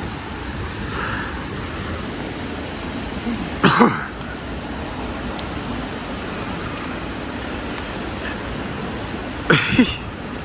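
Steady rain falling. Two short, loud vocal sounds from a person, such as a cough or an exclamation, come through it about six seconds apart.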